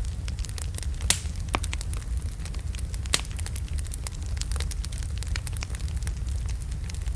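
Wood logs burning in a fireplace: a steady low rumble of the fire with frequent sharp crackles and pops, the loudest about one second in and about three seconds in.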